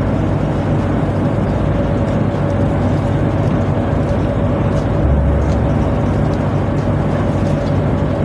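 Tugboat machinery running with a steady low drone and a thin steady whine above it, swelling briefly in the low end about five seconds in.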